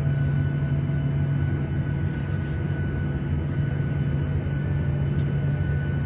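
Steady airliner cabin drone from inside the cabin: engine and airflow noise with a strong low hum and a faint steady high tone.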